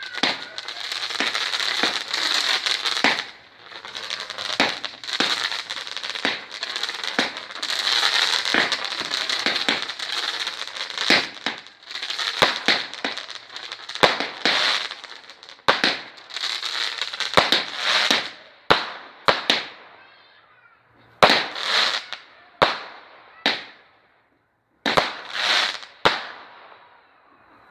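Fireworks going off, dense and continuous crackling full of sharp cracks. About two thirds of the way in it thins out to a series of separate loud bangs, each ringing out briefly.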